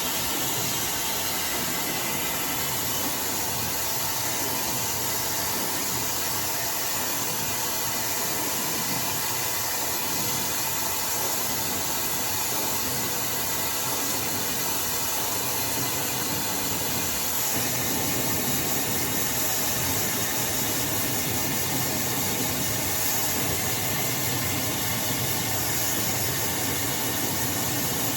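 iDryer AI Pro Style hair dryer blowing steadily while hair is being dried: a constant airy hiss with no change in level.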